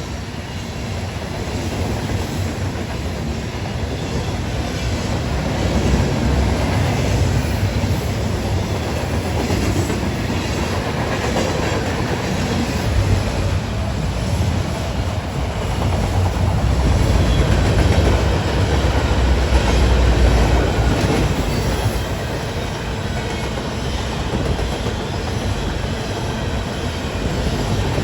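Freight cars of a passing train rolling by, a steady low rumble with wheels clacking over rail joints.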